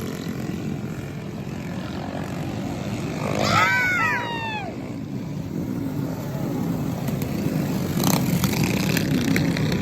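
Small pull-start mini bike engines racing on a flat track, a steady drone throughout. About three and a half seconds in, one engine revs up and back down.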